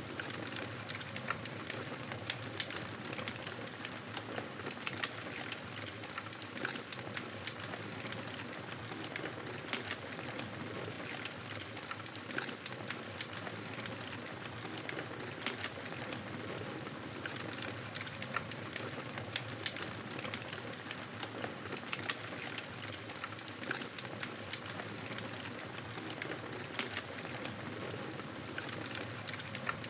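Fire in a fireplace crackling steadily: many small, irregular pops and snaps over a soft, even hiss.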